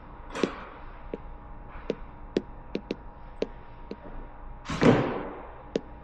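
Irregular light clicks and taps, about a dozen in all, with a louder thud about five seconds in, over a faint steady hum.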